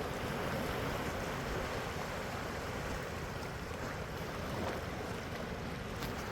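Sea waves washing in at the shore, a steady rushing sound of surf.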